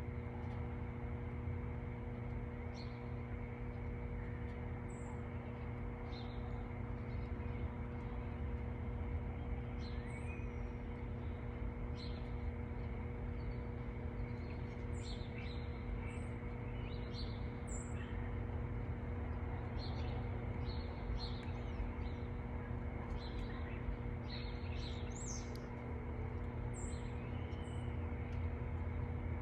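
Small birds chirping, with many short, high calls scattered throughout, over a steady low hum.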